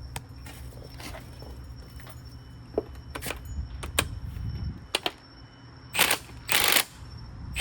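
Metal clicks and knocks of hand tools and suspension parts being handled over a low steady hum, then a few short, loud hissing bursts about six seconds in.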